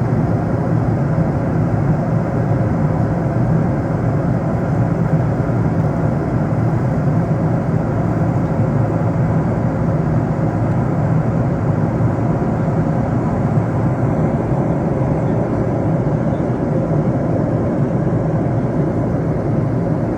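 Steady cabin noise of a jet airliner in flight: engine and airflow noise, strongest in the low range, even and unchanging.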